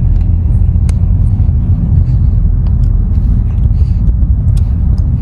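Steady low road and engine rumble inside the cabin of a moving car, with a few faint light clicks.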